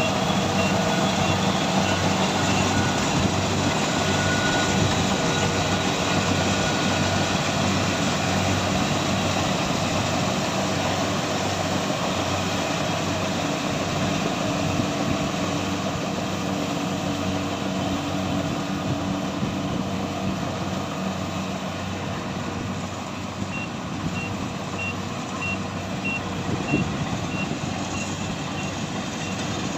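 A heavy machine's engine running steadily under load, with a reversing alarm beeping in short, evenly spaced high tones near the start and again through the last several seconds.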